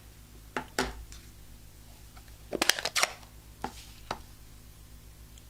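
Sharp taps and knocks of rubber-stamping: a clear photopolymer stamp on an acrylic block tapped on an ink pad and pressed onto cardstock on a table. A few single knocks, with a quick cluster of them about halfway through.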